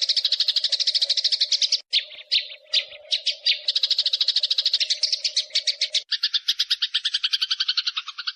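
Eurasian tree sparrows giving a fast, rolling chatter of short high chirps, the agitated calls of fighting sparrows. The chatter breaks off briefly about two seconds in, then runs on.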